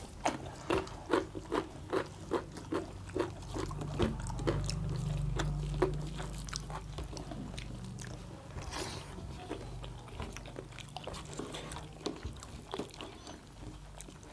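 Close-up chewing of roast quail meat and rice: wet mouth clicks in a steady rhythm of about two to three a second, thinning out in the second half. A low hum comes in underneath about four seconds in.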